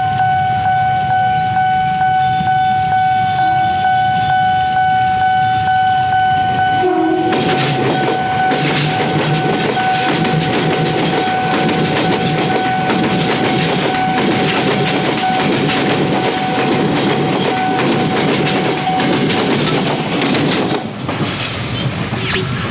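Level-crossing warning alarm sounding a steady high tone while a train passes through the crossing. The train arrives about seven seconds in with a brief low horn-like note, then a long run of rhythmic wheel clatter over the rails. The alarm stops near the end, shortly before the train is gone.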